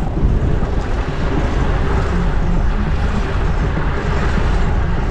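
Steady wind rush on the microphone of a camera riding along on a fixed-gear bike, mixed with road and traffic noise.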